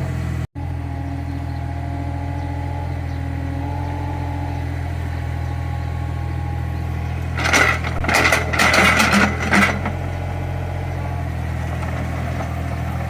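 Small CAT excavator's diesel engine running steadily with a low, even hum. A louder clattering burst lasts a couple of seconds from about seven seconds in.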